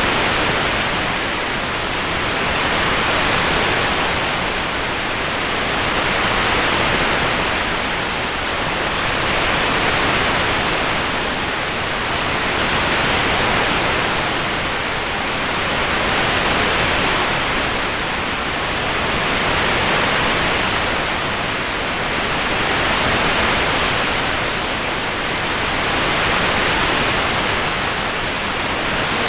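Rain ambience track: an even, steady hiss of rain that gently swells and eases about every three and a half seconds.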